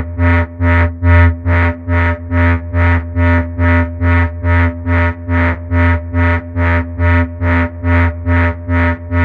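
Arturia Buchla Easel V software synthesizer playing a held low bass tone that pulses evenly about twice a second. Each pulse brings in brighter, buzzy overtones.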